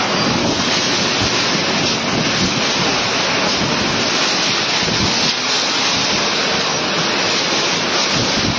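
Strong wind blowing hard across the microphone: a loud, steady rush of wind noise.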